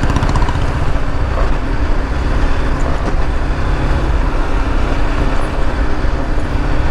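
BMW G 310 GS single-cylinder engine running steadily at cruise in fourth gear, under a steady rush of wind and road noise.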